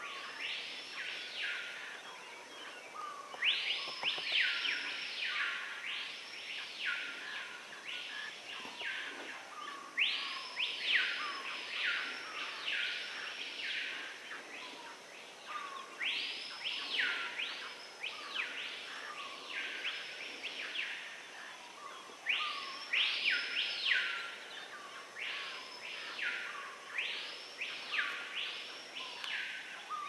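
Screaming pihas calling: loud rising-and-falling whistled notes in runs of three to six, one after another, with short softer low notes between them, over steady rainforest background.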